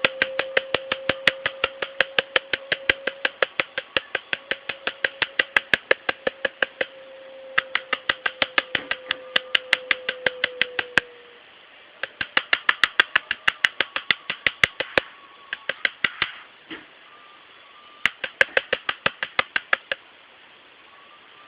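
A bird giving rapid, regular clicking calls, about five a second, in bouts broken by short pauses.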